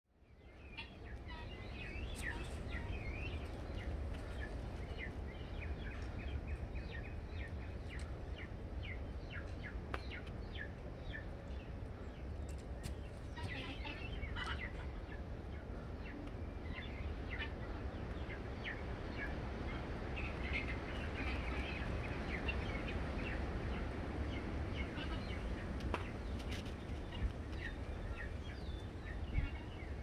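Birds chirping and calling in many short notes scattered throughout, over a steady low rumble, with a few sharp clicks.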